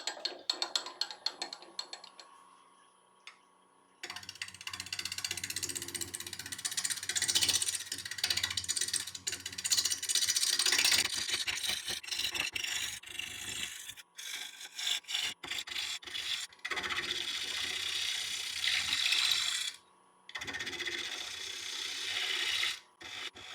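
A wood lathe starts up about four seconds in, and a turning tool cuts the spinning sycamore bowl blank, truing up its bottom. The cutting is a rough scraping hiss over the lathe's low hum, breaking off and starting again several times as the tool makes repeated passes.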